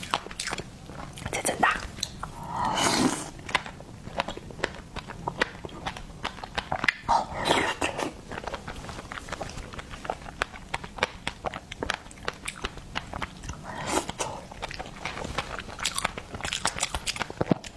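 Close-miked eating of seafood: biting and wet chewing, with a dense run of small clicks and a few longer, louder bursts.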